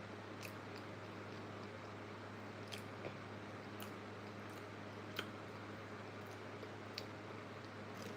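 Quiet close-up eating sounds: a handful of short, sharp mouth clicks and small crunches from chewing, spaced a second or more apart, over a steady low hum.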